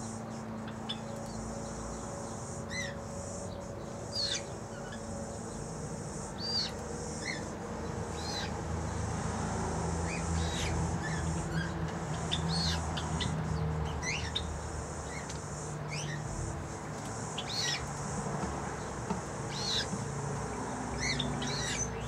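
Small aviary birds giving short, scattered chirps and whistles, about one every second or so, over a faint steady low hum.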